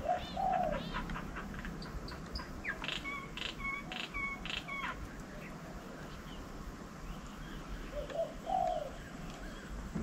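Birds calling: a dove cooing near the start and again about eight seconds in, with a run of sharp, repeated chirps from another bird in between.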